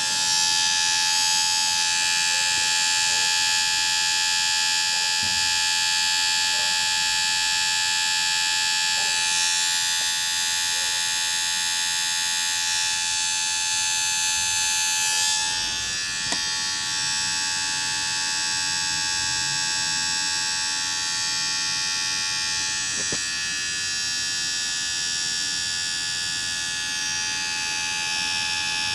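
Small electric motor whining steadily at a high pitch, its tone shifting slightly about ten and fifteen seconds in.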